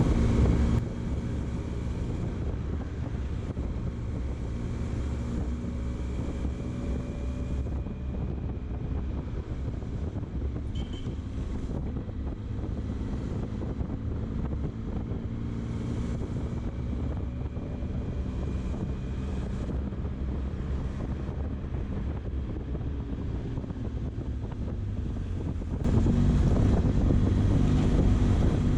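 Benelli Zeus motorcycle riding in traffic, its engine note slowly rising and falling under the rush of wind on the microphone. The sound gets louder again a few seconds before the end.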